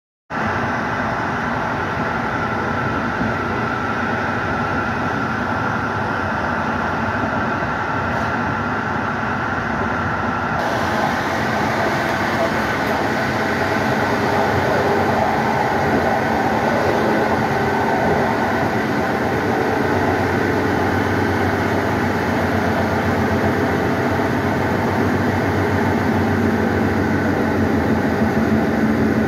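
Steady running noise of an Intercity passenger train at speed, heard from inside its rear end: wheels rolling on the rails and the carriage rumbling. The noise grows brighter and harsher about ten seconds in.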